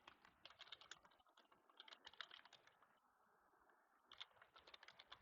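Faint computer keyboard typing: quick runs of soft key clicks, pausing for about a second and a half in the middle.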